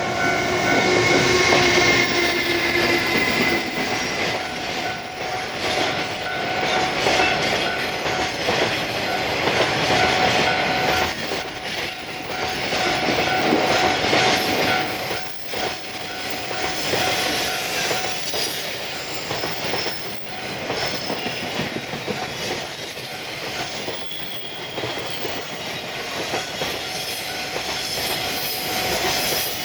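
Electric-hauled freight train climbing a steep grade past the listener: a continuous rumble and clatter of wagon wheels over the rails, with steady whining tones that are strongest in the first few seconds.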